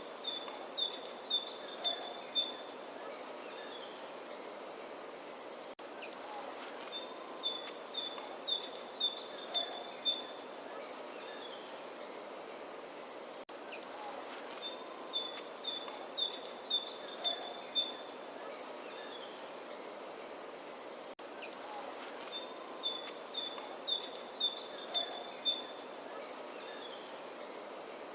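Birdsong over a steady outdoor background hiss. A single bird's phrase comes back the same way about every seven and a half seconds: a quick, high falling note, then a run of fast notes alternating between two pitches.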